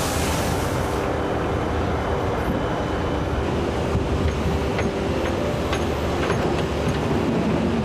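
Vehicle engine running steadily with a low rumble and a steady hum.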